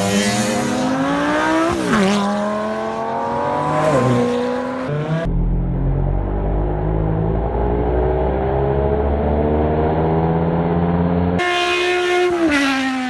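Car engines accelerating hard. The first engine revs climb and drop sharply twice at upshifts. After an abrupt change, a lower, duller engine runs fairly steadily, and a high-revving engine returns near the end.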